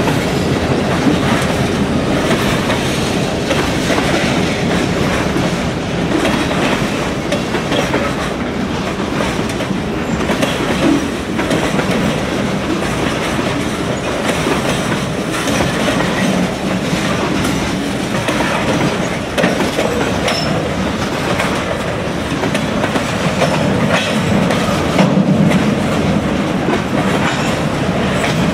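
Freight cars of a mixed freight train rolling past close by: a loud, steady rumble of steel wheels on the rails with a continuous clickety-clack of wheel clicks.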